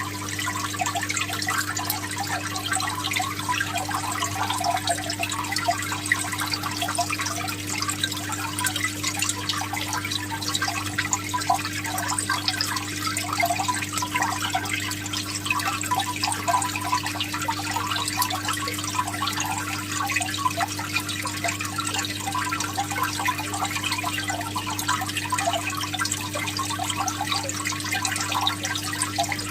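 Water trickling and splashing steadily, with a steady low hum underneath.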